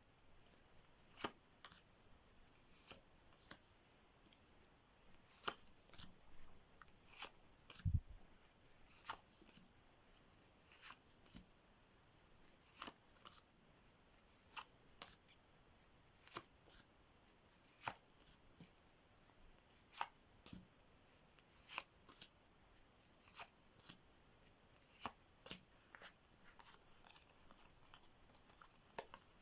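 Playing cards being dealt out one by one onto a table: short quiet snaps and flicks of the cards, roughly one a second, with one heavier thump about eight seconds in.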